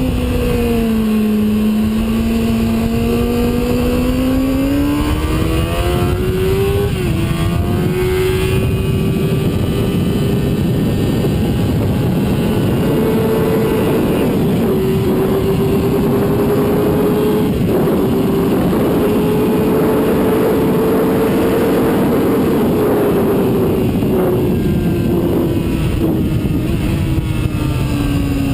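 Sport bike engine running hard on a racetrack, with a steady rush of wind. Its pitch dips and then climbs, jumps sharply at a gear change about seven seconds in, rises slowly through the middle, and falls away over the last few seconds as the bike slows.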